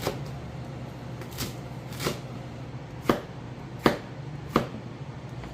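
Kitchen knife chopping crown daisy (ssukgat) coarsely on a cutting board: about six separate chops, the later ones louder.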